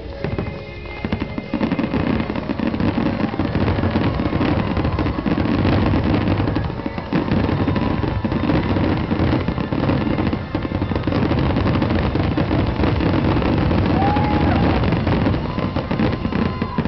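Fireworks barrage: a dense, rapid string of aerial shell bursts and crackling that runs almost without a break, then stops suddenly near the end.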